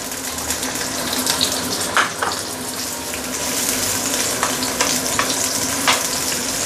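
Ginger slices sizzling in hot oil in a stainless steel wok while a wooden spatula stirs them, a steady frying hiss with a few sharp ticks from spatter and the spatula against the metal.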